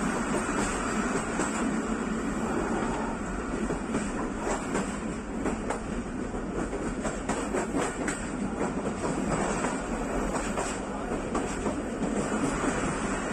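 A passenger train running along the track, heard from on board: a steady rumble of wheels on rail, with a run of clicks and clatter over the rail joints through the middle.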